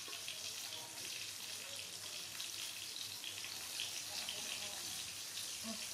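Climbing perch frying in hot oil in a pan, a steady sizzle with fine crackles.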